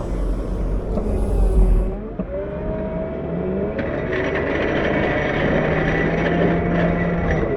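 CAT 908 compact wheel loader's diesel engine working under load, its pitch dipping and climbing as it revs about two seconds in. From about four seconds in a high, steady whine with hiss rides over the engine until near the end.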